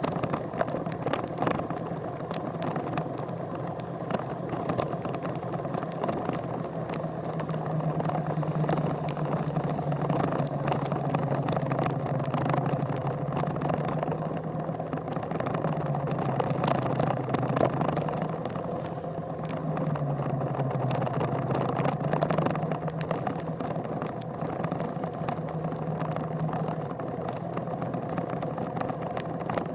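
A vehicle engine running steadily, its pitch dipping and rising a few times in the middle, with frequent sharp clicks over it.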